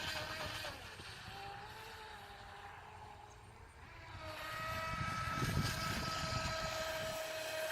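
RC racing boat's motor whining as it runs on the water. It fades off in the first second, stays quieter with a slight rise and fall in pitch, and comes back louder from about four seconds in as a steady high whine.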